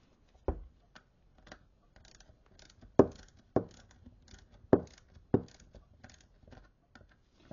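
Sharp metallic clicks and taps of hand tools working the new stud nuts on a Sturmey Archer gearbox clutch centre, about five clear clicks at uneven spacing, the loudest about three seconds in.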